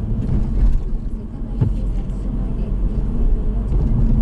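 Road and engine rumble heard inside a moving car's cabin, steady and low, with one short knock about a second and a half in.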